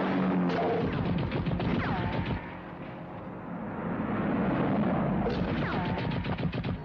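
Two bursts of rapid gunfire from a film chase soundtrack, each with a falling whine partway through, over a running car engine.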